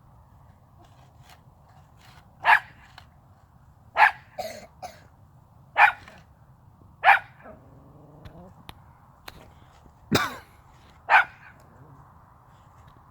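A dog barking: six short, sharp barks spaced one to two seconds apart.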